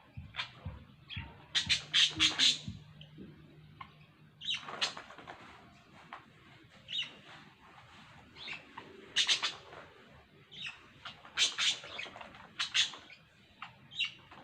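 Two pet birds chirping in short, sharp clusters of calls every few seconds, the loudest run about two seconds in.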